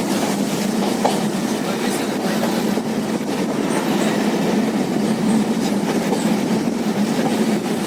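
Passenger train running at speed, heard from inside a carriage: steady rumble and rattle of the wheels on the track with a faint clickety-clack.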